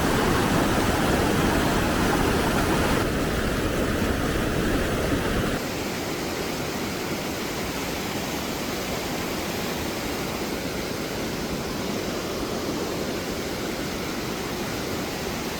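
Steady rush of falling water from the Krka river's waterfalls and cascades, a dense even hiss that drops in level about three seconds in and again about five and a half seconds in.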